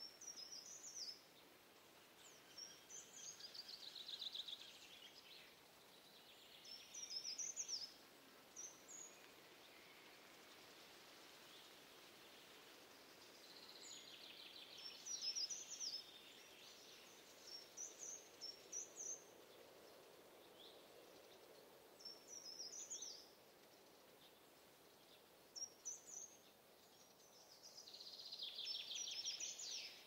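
Small birds singing: short, high chirping phrases every few seconds, with three longer buzzy trills, over faint outdoor ambience.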